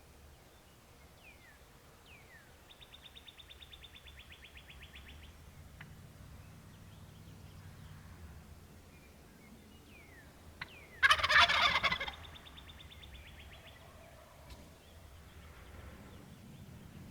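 A wild Merriam's turkey gobbles loudly once, about eleven seconds in. Around it are faint songbird chirps and two rapid high trills.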